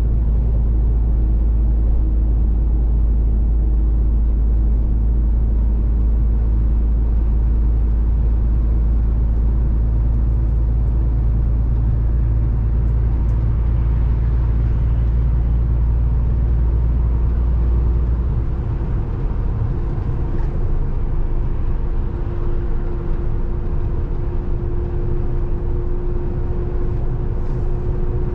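Scania 450 truck's diesel engine running steadily under way, heard from inside the cab. About two-thirds of the way through, the deep low rumble drops away while a steady hum carries on, as when the driver eases off the throttle.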